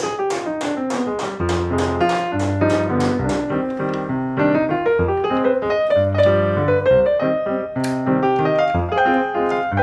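Background piano music, opening on a falling run of notes over low bass notes.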